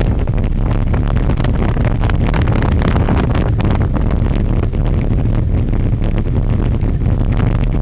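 Loud wind buffeting on the microphone over a steady low rumble, with many small rattles and clicks, as of a cyclocross bike ridden fast over rough ground.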